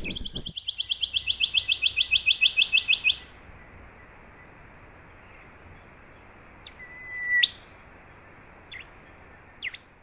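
A songbird's rapid trill, about ten even high notes a second for three seconds, that stops abruptly. Then a faint steady hiss, with a short whistled call about seven seconds in and a few faint chips near the end.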